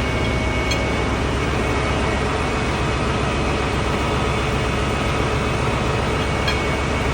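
Steady din of a ship's engine room: running diesel machinery humming evenly at a constant pitch, with two faint clicks.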